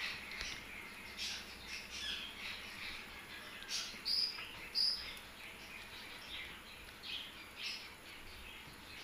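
Birds chirping, a scatter of short high calls with two brief whistled notes near the middle, over quiet room hiss.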